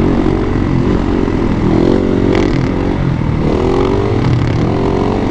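Motorcycle engine revving as the bike is ridden, its pitch rising and falling several times as the throttle is opened and eased off.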